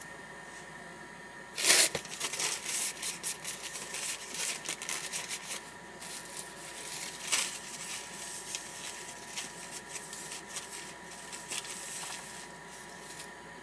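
A sudden loud rip about two seconds in, followed by irregular crinkling and rustling that thins out near the end.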